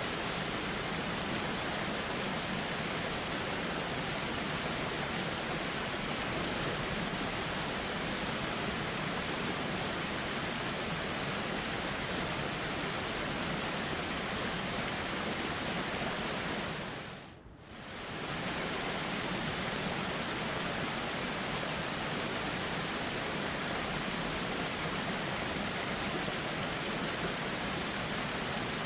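River water flowing steadily. About two-thirds of the way through, the sound fades away for a moment and swells back, like the seam of a looped recording.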